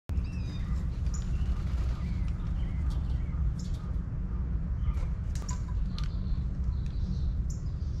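Backyard birds chirping and calling, a scatter of short chirps and brief high notes, over a steady low rumble.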